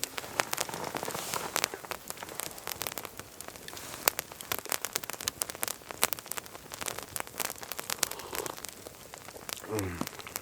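Wood campfire crackling, with many sharp, irregular pops over a steady hiss.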